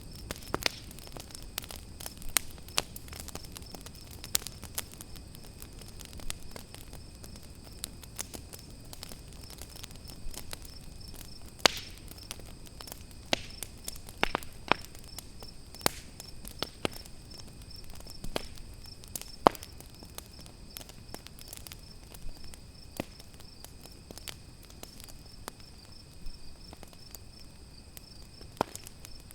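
Campfire crackling, with irregular sharp pops scattered throughout and one louder pop about two-thirds of the way through, over crickets chirping steadily in a fast pulsing trill.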